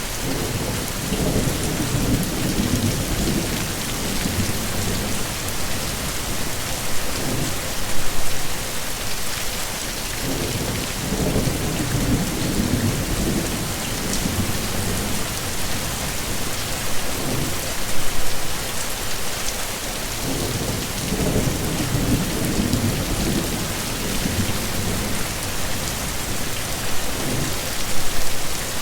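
Steady heavy rain with low rolls of thunder swelling up about every ten seconds, and a brief louder burst between them.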